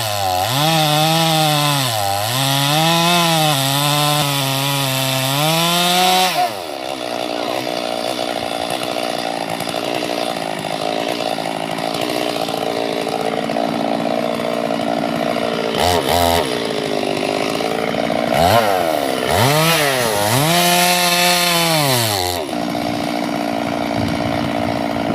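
Two-stroke chainsaw cutting wood, its engine pitch repeatedly dipping and recovering as the chain loads up in the cut. For a long stretch in the middle it runs at a steadier, lower pitch. It cuts again briefly near the end.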